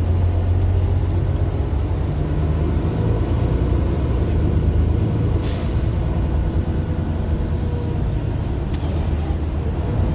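Mercedes-Benz Citaro LE city bus's Daimler OM 457 hLA inline-six diesel running steadily while the bus drives, heard from inside the bus, with a short hiss about five and a half seconds in.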